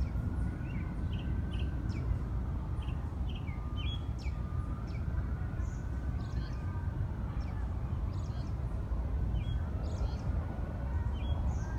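Birds chirping in short, high, repeated notes throughout, over a steady low city rumble, with a faint distant siren wailing slowly up and down beneath them.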